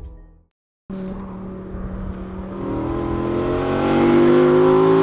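A vehicle engine approaching and accelerating, its pitch climbing steadily and getting louder, after a brief fade-out of music at the start.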